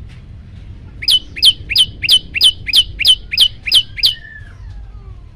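Prenjak lumut calling a fast series of about ten sharp, high chips, each dropping quickly in pitch, at about three a second. The run stops about four seconds in and is followed by a fainter, lower falling note.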